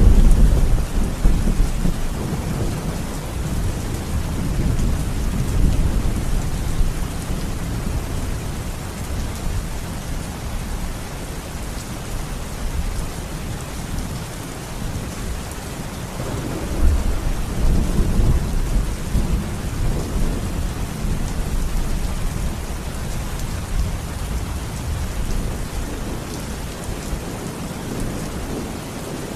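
Steady rain with rolling thunder. A loud low rumble breaks in suddenly at the start and fades over several seconds, and a second rumble swells about 17 seconds in.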